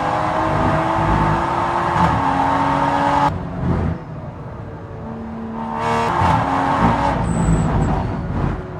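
Toyota GR Supra GT4's BMW B58-derived 3.0-litre turbocharged inline-six heard onboard at full throttle, stepping through upshifts. About three seconds in the engine suddenly drops to a quieter, lower note as the driver lifts off. About six seconds in it comes back on power and pulls hard again.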